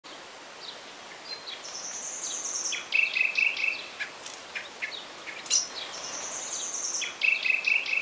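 A songbird singing the same phrase twice, about four seconds apart: a high drawn-out note followed by a lower rapid trill, over a faint steady background hiss.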